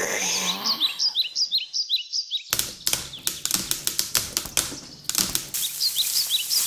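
Short, high, bird-like chirps repeating, then about two and a half seconds in a quick irregular run of sharp clicking taps, several a second, for about two and a half seconds, after which the chirps return.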